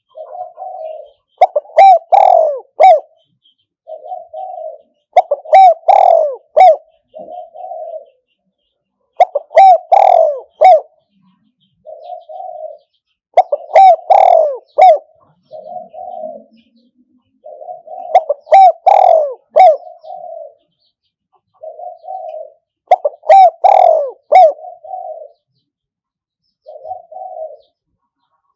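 Spotted dove cooing over and over: loud phrases of several coos every four to five seconds, with shorter, softer single coos between them. This is a decoy bird's call used to lure wild doves.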